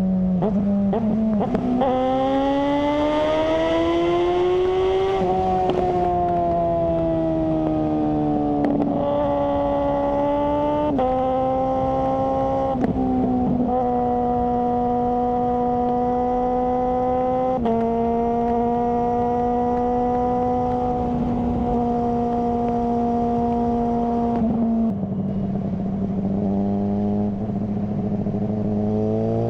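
Suzuki GSR600 inline-four running through a GPR Ghost aftermarket exhaust while ridden. The engine note climbs over the first few seconds, then holds at steady revs for stretches, changing pitch in sudden steps as the gears change. It drops to a lower note about 25 seconds in and starts rising again near the end.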